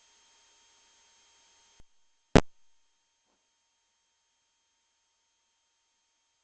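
A single short, sharp thump about two seconds in, just after a faint click, over a faint steady electrical whine and otherwise near silence.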